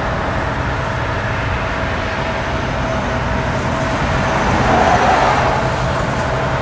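Steady low mechanical drone with a faint steady whine over it, swelling slightly about five seconds in.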